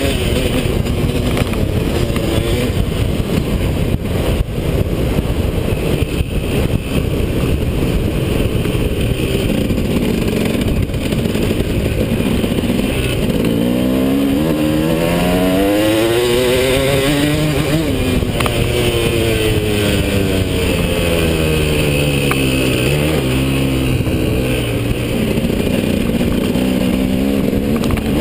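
KTM 250 SX two-stroke motocross engine running hard while being ridden. Its pitch repeatedly rises and drops, most clearly in the second half, as the rider works the throttle and changes gear.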